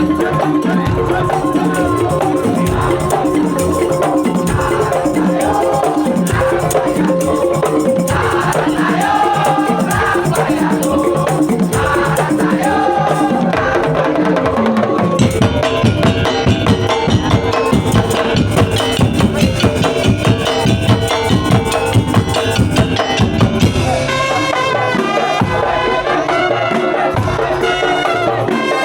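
Madurese daul (tongtong) ensemble playing: a melody line over steady drumming and rattling percussion. The drumming grows denser and more pulsing from about halfway.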